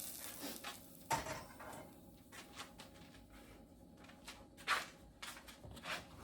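Scattered clicks and knocks of kitchen utensils and dishes while cornbread batter is being mixed, with two louder knocks about a second in and near five seconds. A hiss of hot oil fades out at the start.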